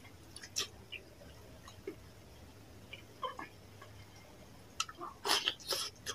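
Close-up wet chewing and lip-smacking of a mouthful of rice and fish curry: a few scattered soft clicks at first, then a louder run of smacks near the end.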